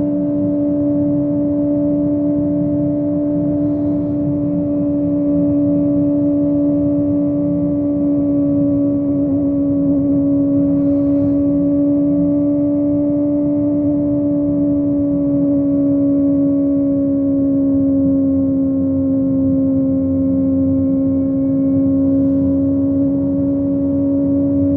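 Kawasaki ZX25R's inline-four engine through a Yoshimura exhaust, cruising at steady high revs on the highway, with a low rumble of wind and road underneath. The engine note holds nearly level, dipping slightly in pitch about two-thirds of the way through.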